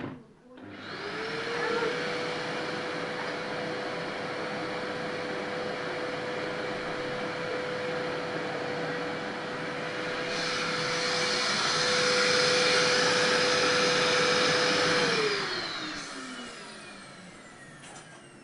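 Vacuum cleaner switched on, its motor whining steadily with a rushing hiss that gets louder for a few seconds about ten seconds in. It is then switched off, and the whine falls in pitch as the motor spins down.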